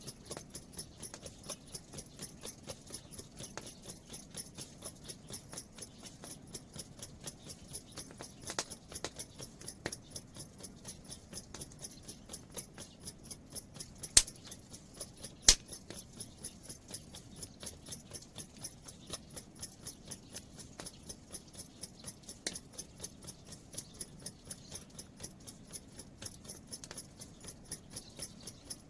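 Raindrops ticking on a hard surface in a quick, fairly even run of about four or five drops a second, with two sharp, louder knocks just past the middle.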